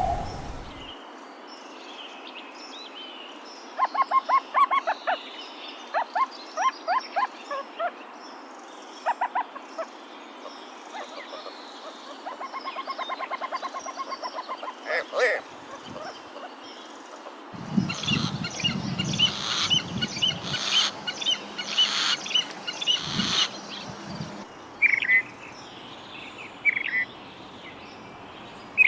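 Birds calling: series of short repeated notes and a fast trill, then a louder stretch of noisier calls from about 18 seconds in, over a faint steady background hiss.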